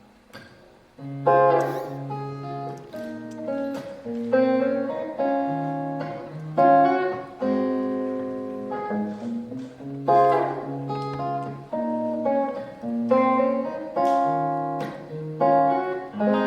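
Acoustic guitar playing a slow instrumental intro, chords struck about once a second and left to ring, starting about a second in.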